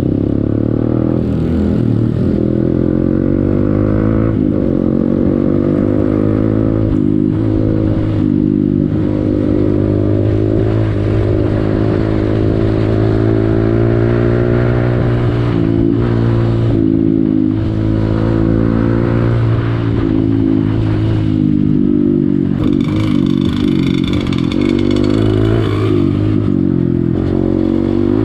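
Honda CRF150L's single-cylinder four-stroke engine running continuously under a riding load, its pitch rising and falling gently with the throttle.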